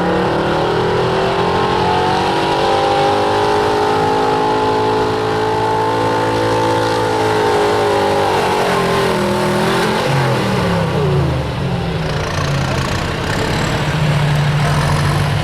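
Pulling truck's engine revving up and held at high revs under load during a pull, then easing off about ten seconds in and dropping back to a lower, steady run near the end.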